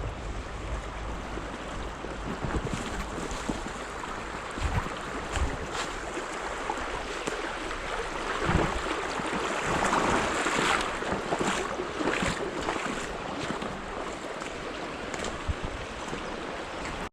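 Steady rush of a small stream's flowing water, with wind rumbling on the microphone.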